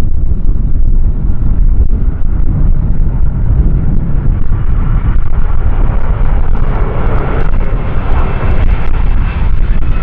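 Strong wind buffeting the microphone with a heavy low rumble. From about halfway, a jet airliner's engines grow louder beneath it, with a rising whine toward the end.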